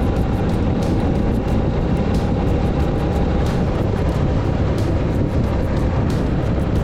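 Yamaha Grass Tracker motorcycle riding along at a steady speed: its single-cylinder engine running under an even rush of wind on the helmet microphone, with short gusts of buffeting.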